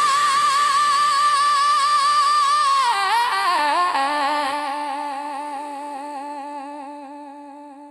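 Female blues singer holding one long note with vibrato, nearly unaccompanied; about three seconds in it slides down to a lower note, which fades out slowly.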